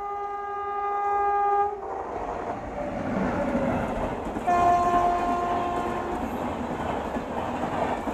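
WAP-7 electric locomotive of the Rajdhani Express sounding its multi-tone horn as it approaches, the horn cutting off about two seconds in as the train rushes past. A second horn blast, lower in pitch, comes about four and a half seconds in, over the steady rumble and clatter of the coaches' wheels on the rails.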